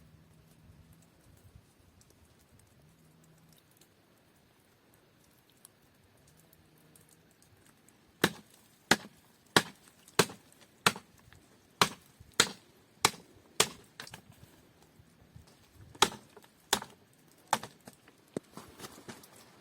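A hatchet chopping wood: about a dozen sharp, quick strikes roughly two a second, starting about eight seconds in, with a short break before the last three.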